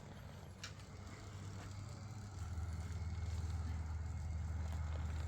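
An engine running steadily with a low hum, growing louder about two seconds in and then holding.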